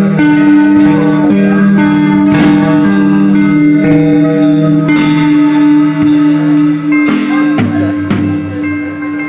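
Live band music: electric guitar holding chords over drum and cymbal hits, loud throughout.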